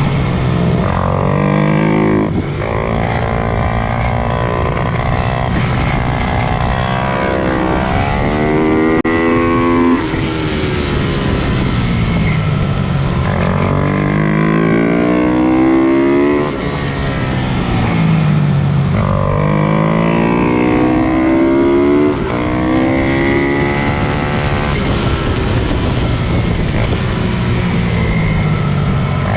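Several pit bike engines revving hard as the bikes race, each one's pitch climbing over a few seconds, dropping sharply and climbing again, over and over.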